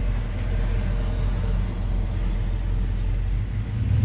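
Engine and road noise of a 1958 GMC 100 restomod pickup heard from inside the cab while driving: a steady low drone that swells near the end.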